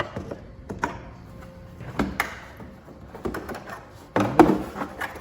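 Scattered clicks, knocks and clunks of engine parts and hand tools being handled while the top of the engine is dismantled, with a louder cluster of clatter near the end.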